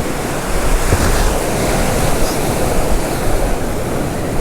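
Steady rush of surf breaking and washing on the beach, with wind rumbling on the microphone.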